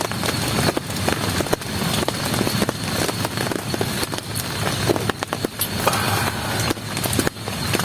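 Heavy rain falling, with a dense patter of sharp drop impacts close by over a low rumble.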